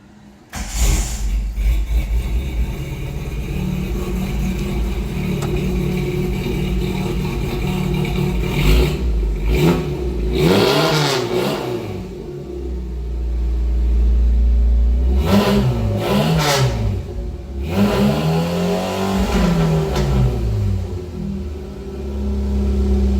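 A vehicle engine with a newly installed exhaust starts about half a second in, then idles and is revved several times, its pitch rising and falling with each rev. The owner calls the exhaust note 'kind of ricey', not what he was after.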